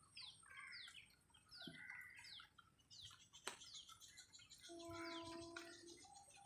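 Birds chirping faintly, with short falling notes repeated about every half second. A sharp click comes a little past halfway, and a held low tone sounds for over a second near the end.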